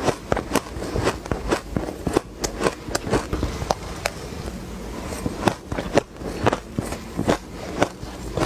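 Ice cubes being bitten and crunched between the teeth: crisp cracking crunches, two or three a second at an uneven pace, with a short lull about halfway through.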